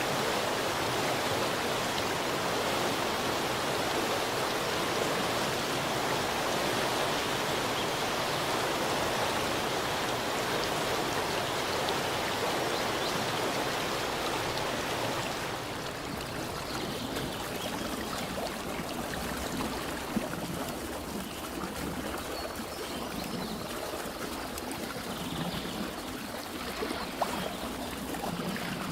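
Rushing water of a stream, a steady full hiss. About halfway through it changes to a slightly quieter, duller wash, with a couple of faint clicks near the end.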